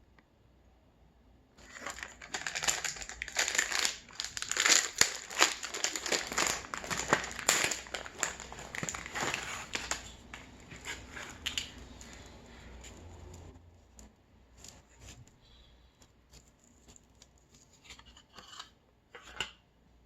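Wrapper of a half-pound Reese's peanut butter cup crinkling and tearing as it is unwrapped by hand. The crinkling is dense for the first two-thirds, then thins to occasional rustles and clicks near the end.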